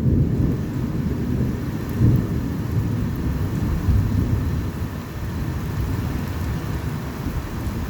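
Thunder rumbling low and continuously through a rainstorm, over a steady hiss of rain. The rumble swells a little about two and four seconds in.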